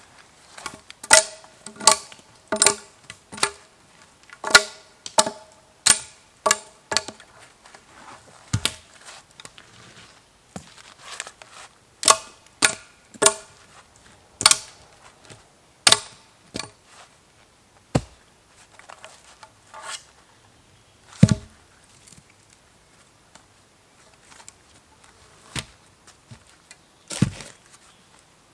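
Wood being chopped with a blade tool: about twenty sharp blows at irregular intervals, many with a brief ringing tone, coming in quick groups early on and thinning out towards the end.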